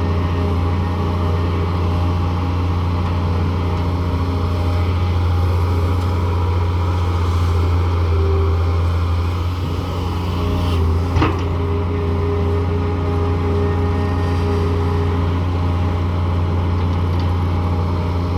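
Daewoo 170W-III excavator's diesel engine running steadily under load with hydraulic whine, and a single sharp knock about eleven seconds in.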